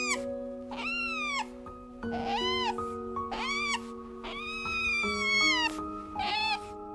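Otters giving a series of high mewing squeals, about five, each rising and then falling in pitch, over soft background music with long held notes.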